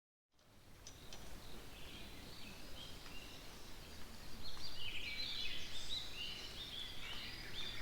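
Small birds chirping, with many short overlapping calls over a low steady background rumble. The calls come in about a third of a second in and grow louder and busier from about four seconds in.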